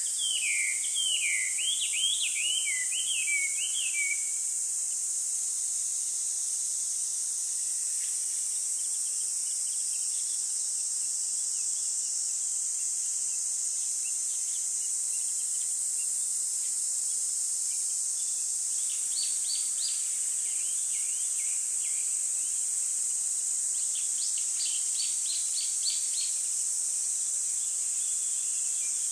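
Birds chirping in quick runs of short notes, for the first few seconds and again twice later, over a steady high-pitched hiss.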